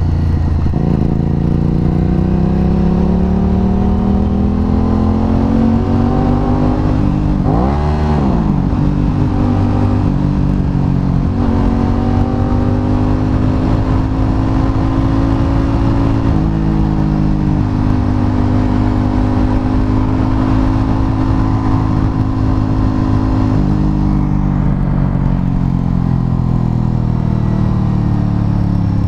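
Aprilia RS 660 parallel-twin engine running under way, its pitch climbing slowly and holding. About eight seconds in it revs up sharply and falls straight back, and it steps down several times later, as at gear changes.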